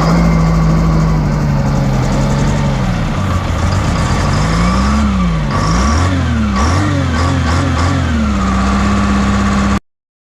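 The engine of a Hopto H1900 hydraulic excavator running, its speed sagging a few seconds in, then revved up and down several times before settling at a steady, higher speed. The sound cuts off suddenly near the end.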